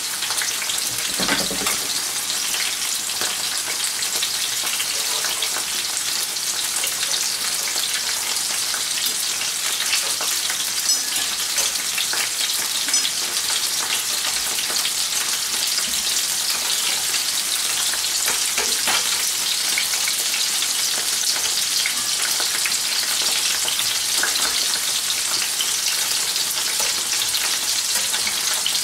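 King prawns frying in olive oil with garlic in two pans, a steady sizzling hiss. A few light clicks come from tongs and a fork turning the prawns.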